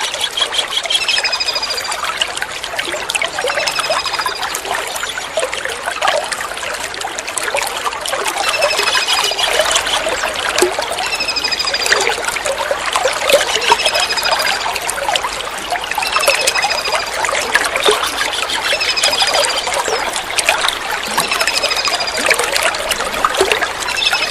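Kingfisher calls: short, high-pitched notes repeated about every second or two, over a steady trickle of running water.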